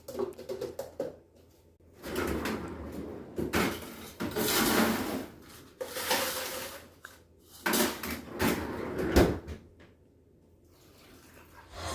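Household rummaging noise: a run of sliding and knocking sounds, each about a second long, with a sharp knock about nine seconds in and a quiet spell near the end.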